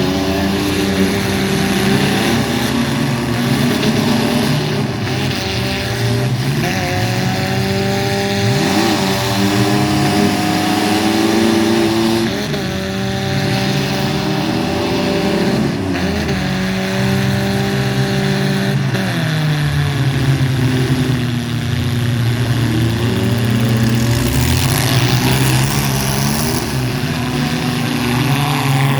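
Mini truck engines running and revving, several at once, their pitch rising and falling repeatedly.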